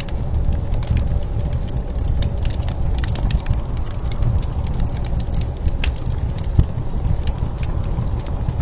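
Wood fire crackling, with many sharp pops scattered throughout, over a steady low rumble of blizzard wind.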